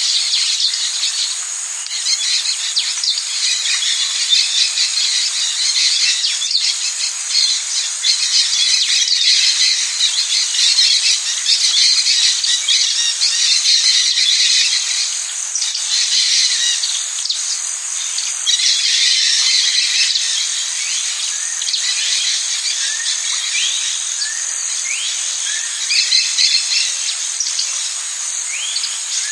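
Amazon rainforest ambience: a dense, steady high-pitched insect chorus with birds calling through it, including several short rising whistles near the end.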